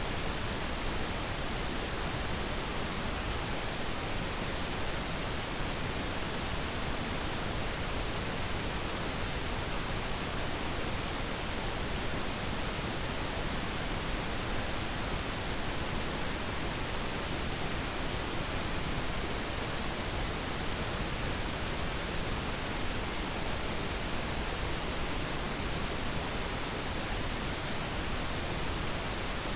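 Steady pink noise: an even, unchanging hiss with no other events.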